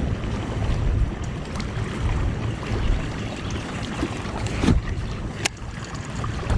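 Wind buffeting the microphone over water lapping against a fishing kayak's hull, with a couple of sharp clicks about two-thirds of the way in.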